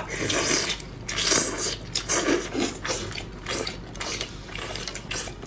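A person eating fast, with a dense string of short slurping and chewing noises.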